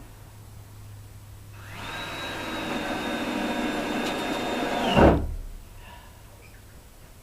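Ryobi cordless drill running steadily for about three seconds, driving a screw into wood. The motor slows as it stops, with a loud thump about five seconds in.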